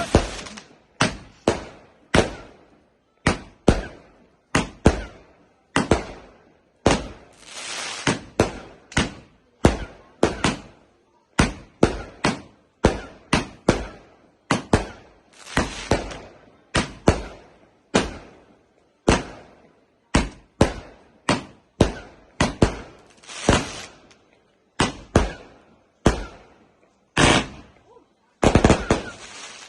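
Fireworks going off in a long rapid barrage: sharp bangs about one to two a second, a few of them trailing a short hiss or crackle.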